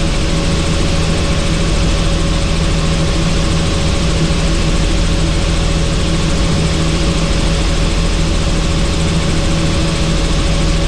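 Helicopter in cruising flight, heard from inside the doors-off cabin: a steady, loud drone of rotor and turbine engine with rushing air.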